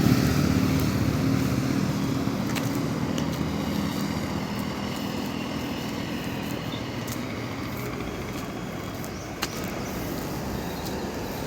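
A motor vehicle's engine running steadily, a low hum with a few faint clicks.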